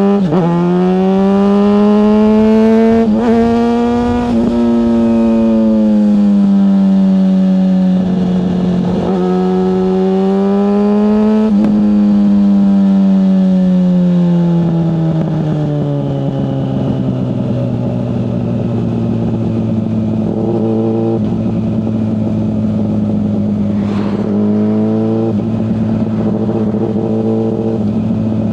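Yamaha FZ6S 600cc inline-four motorcycle engine under way. Its revs rise and fall with a few gear changes in the first half, then drop to a steady, lower engine note for the rest.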